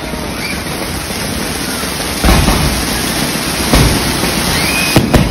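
Fireworks going off in a dense, steady crackle, with three louder bangs about two, nearly four and five seconds in.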